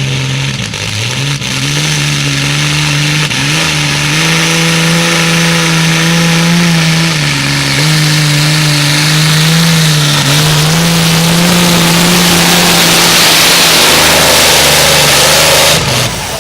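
Modified pulling tractor's engine running at high revs under load. Its pitch climbs in the first few seconds, dips briefly twice, then drops away suddenly near the end.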